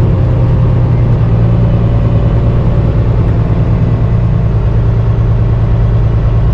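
Diesel semi-truck engine running at a low, steady speed, a deep even hum with no revving.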